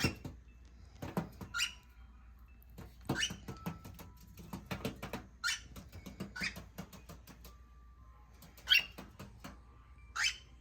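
Cockatiels scratching, tapping and shuffling about, with a few short rising chirps.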